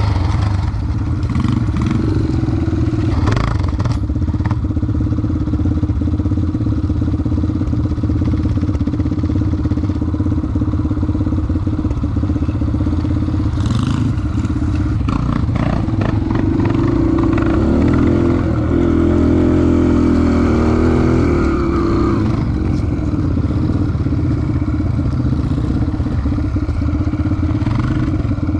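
Dirt bike engine running steadily while being ridden, its note swelling a little about two-thirds of the way through. A few brief knocks sound along the way.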